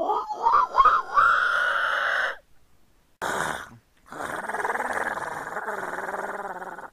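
A man's voice making animal-like noises: a high cry that swoops up and wavers for about two seconds, a short burst, then a long raspy held noise.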